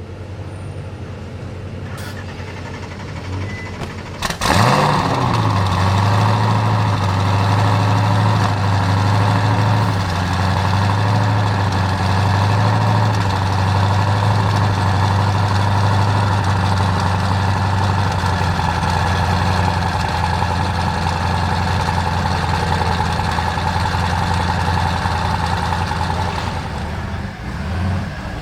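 Twin-turbocharged 7.0-litre LS7 V8 of the Mazzanti Evantra Millecavalli starting about four seconds in with a sharp flare of revs, then settling into a steady idle.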